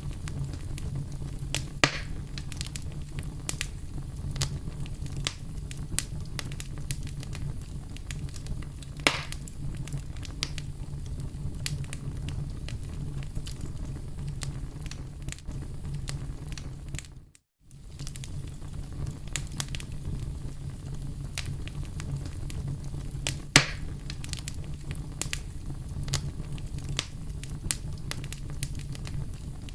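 Wood campfire crackling: a steady low rumble of burning with frequent sharp pops and snaps, a few of them louder. The sound cuts out completely for a moment about halfway through.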